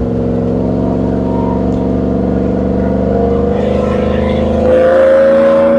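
2002 Chevrolet Silverado pickup's engine and exhaust accelerating, heard from inside the cab, revs climbing steadily. It gets noticeably louder about three-quarters of the way through and holds there to the end.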